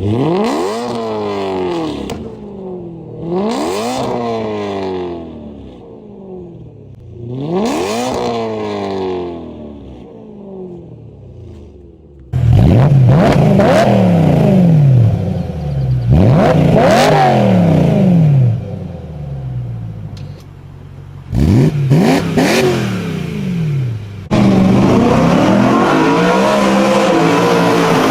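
BMW E9X M3's S65 V8 with an aftermarket exhaust, being revved in quick blips that rise and fall back, three times in the first part. Then it is louder, with more sharp revs and a long hold at high revs near the end.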